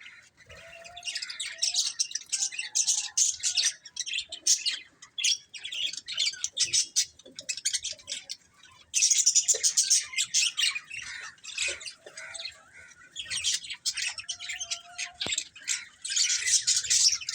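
Pet budgerigars chirping and chattering in rapid, high warbling bursts, with short pauses and a few lower whistled notes.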